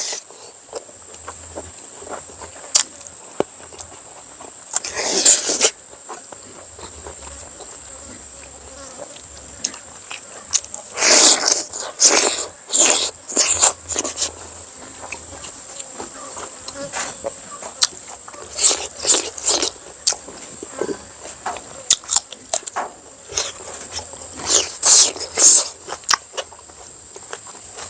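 Close-up chewing and mouth smacking of someone eating, coming in irregular clusters of short, wet bursts. Behind them runs a steady high-pitched buzz.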